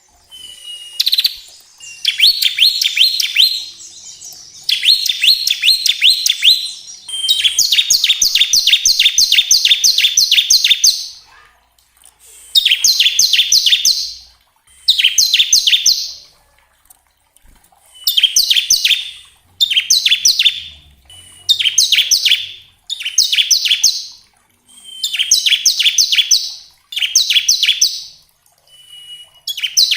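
Bar-winged prinia (ciblek) singing its fast rattling 'ngebren' song: repeated bursts of quick, sharp notes, each sweeping down in pitch, with each burst opening on a thin whistled note. The bursts last one to four seconds, with short pauses between them.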